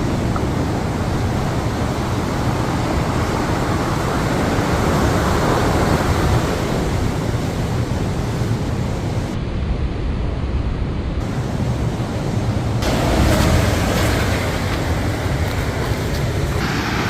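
Ocean surf washing in a steady rush, swelling louder twice as waves break, with wind buffeting the phone's microphone.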